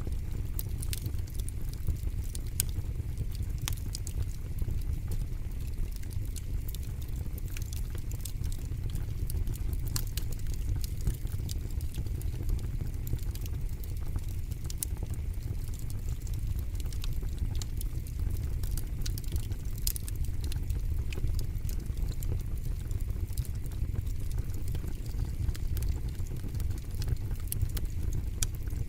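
Fire burning in a fire pit, crackling with frequent irregular sharp pops and snaps over a low steady rumble.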